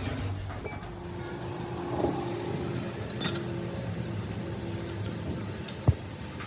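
A motor vehicle engine running steadily, with one sharp knock near the end.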